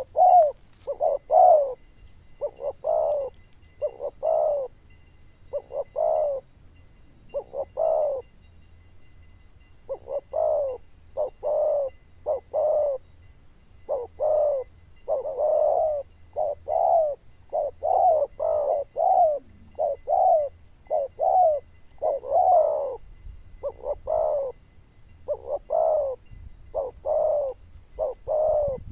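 Spotted dove cooing loudly and over and over: a steady string of short coos, each about half a second long, with brief pauses between them.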